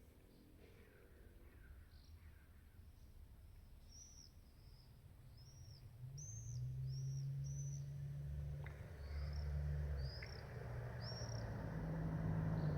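A small bird repeating short, arched chirps, about a dozen in a row, a little under a second apart. A low rumble grows louder through the second half.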